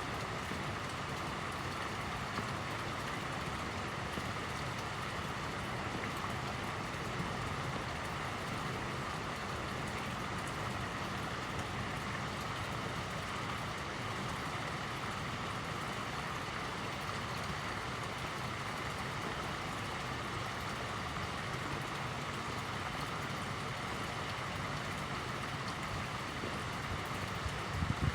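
Fountain water splashing and falling into a pond, a steady, unbroken rush.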